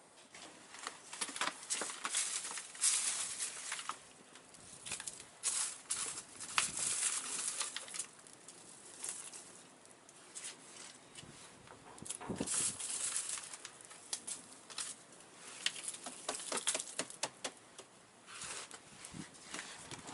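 Dry dead leaves and twigs rustling and crackling in irregular bursts, with sharp snaps in between, as they are handled and burned on a small bonfire.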